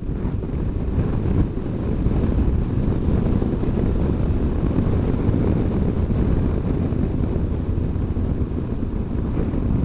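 Steady rush of wind buffeting the microphone while riding a BMW R1200GS Adventure motorcycle, with the bike's running noise underneath; heaviest in the low end.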